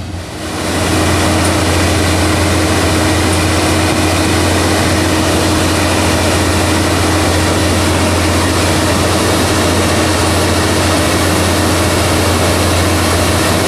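Heavy diesel engine of a railway track maintenance machine running loud and steady close by, with a deep low hum and a steady mid-pitched drone. It swells up about half a second in and then holds steady.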